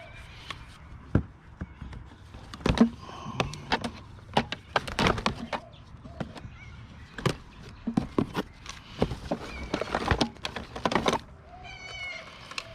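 Clattering knocks and thunks of hard-rubbish e-waste being handled and moved, many separate hits spread throughout, with a short high-pitched chirping call about twelve seconds in.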